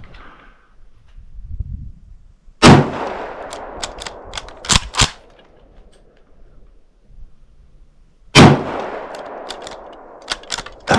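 Two shots from a Yugoslavian M95M Mannlicher rifle in 8mm Mauser, about six seconds apart, each echoing as it fades. After each shot come several quick metallic clicks as the straight-pull bolt is cycled to chamber the next round. The bolt is starting to get stiff.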